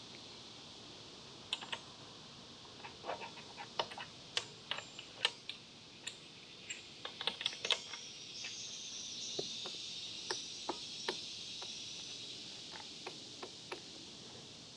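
Scattered, irregular light clicks and taps of tools and metal parts being handled while adjusting a motorcycle chain, over a steady high hiss that swells for a few seconds in the middle.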